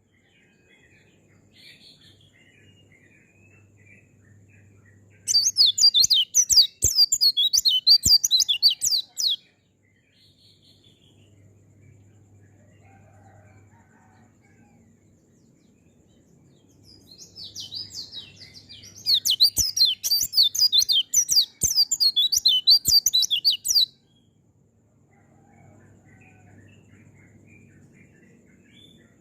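A pleci (white-eye) singing in two long bouts of rapid, high, jumbled twittering, the first about four seconds long and the second about seven. Soft, scattered twitters fill the gaps between them.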